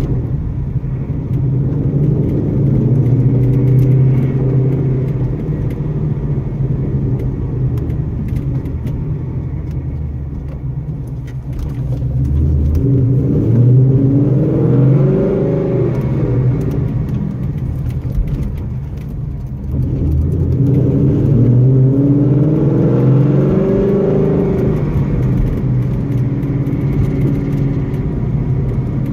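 2015 Ford Mustang GT's 5.0 V8 driving off and accelerating, over a steady engine and road rumble. The engine note rises twice in pitch as it pulls through the gears, about twelve seconds in and again about twenty seconds in.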